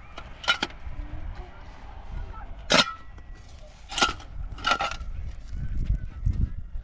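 Four sharp strikes at uneven intervals, each with a short metallic ring, like a hard tool hitting hard material.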